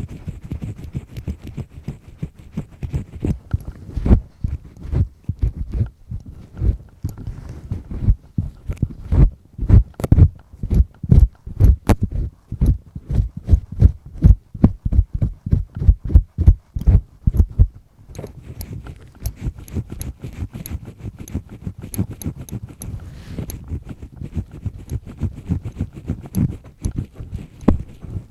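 A double-disc earpick scraping and rubbing firmly inside an ear, very close to the microphone, in quick repeated strokes. Through the middle the strokes turn into heavy, distinct thumps several times a second, and toward the end they settle into softer, denser scratching.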